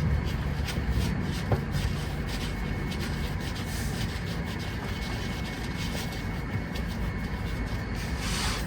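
A steady low mechanical rumble with a thin, steady high tone over it and a few light ticks.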